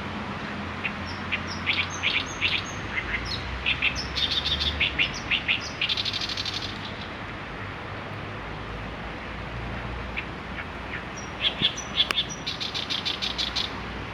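A songbird singing two long, varied phrases of quick chirps and whistles, each ending in a fast rattling trill, with a pause of a few seconds between them.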